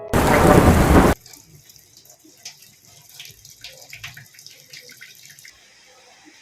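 A sudden, very loud rush of noise lasting about a second that cuts off sharply, then faint rain with scattered drips and ticks.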